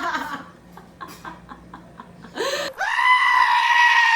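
A single long, high-pitched vocal cry, held on one steady pitch for about two seconds after rising into it, starting a little past halfway through and dropping away at the end.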